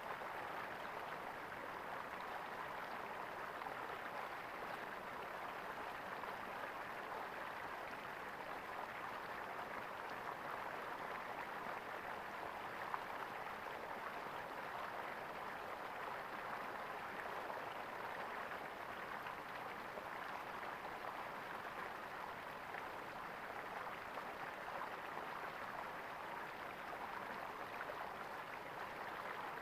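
Water gurgling steadily as it flows in a small stream, with one brief tick about halfway through.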